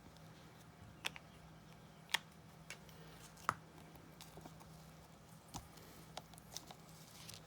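Scattered light clicks and taps of crafting tools and paper being handled on a work surface, about six in all, over a faint steady hum.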